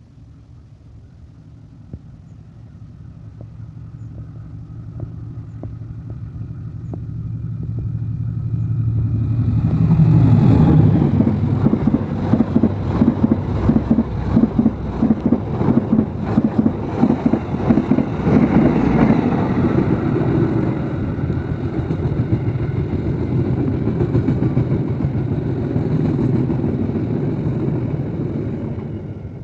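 Passenger train approaching, growing steadily louder over about ten seconds, then passing close with a heavy rumble and rapid rhythmic clatter of its wheels over the rails.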